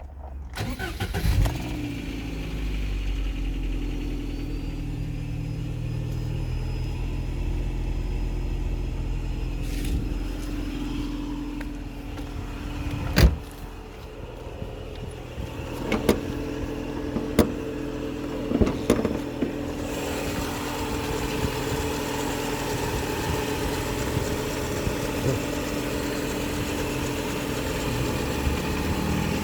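An engine starting and then running steadily at idle. There is one sharp knock near the middle and a few clicks a few seconds later.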